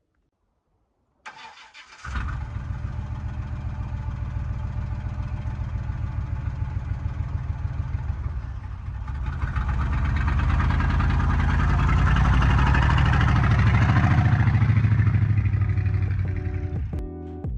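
A pickup truck's engine is cranked briefly by the starter and catches about two seconds in, then runs with a fast, even pulse. It is revved up from about ten seconds, rising in pitch and level, and eases back near the end.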